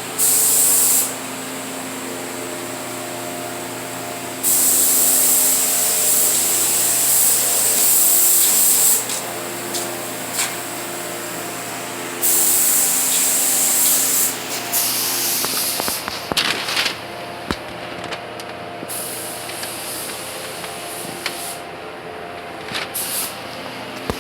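Paint being sprayed in long hissing bursts: three main bursts of about one, four and two seconds, then a few short spurts, over a steady hum.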